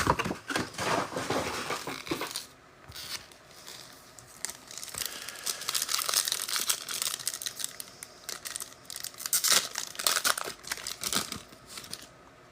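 Trading card pack wrappers being torn open and crinkled by hand, in several irregular bursts of rustling with a sharp click at the start.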